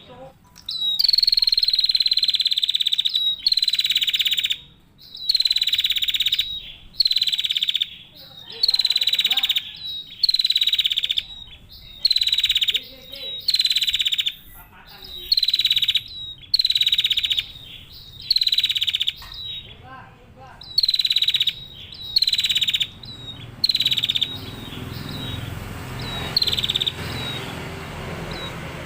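Female prenjak (prinia) giving a string of loud, buzzy calls, each opening with a quick downward sweep, about one every second. The calls stop about 24 seconds in, leaving a low rumbling background with one last call near the end.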